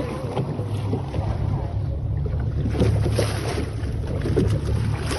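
Motorboat engine running with a steady low hum, with wind gusting across the microphone and water noise.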